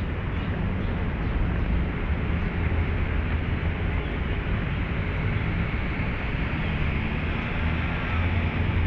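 Steady low rumble of road traffic, a continuous engine hum under a wash of noise, with no single vehicle standing out.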